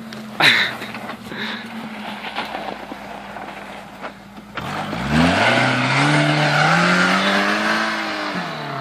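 Suzuki Samurai engine running low and steady, with one sharp knock about half a second in. About halfway through it revs up, its pitch climbing steadily for several seconds under the rush of wheels spinning in snow, then eases off near the end.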